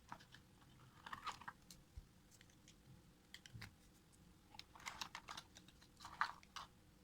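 Soft, scattered clicks and taps of small objects being handled, in short irregular clusters.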